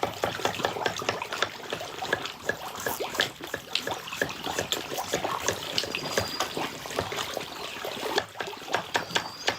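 Water splashing and trickling, with many small irregular splashes: a crowd of black carp and grass carp feeding at the surface.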